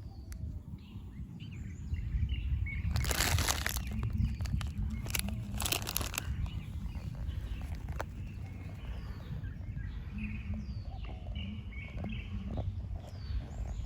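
Small birds chirping here and there over a steady low outdoor rumble, with two short bursts of rustling noise about three and five seconds in.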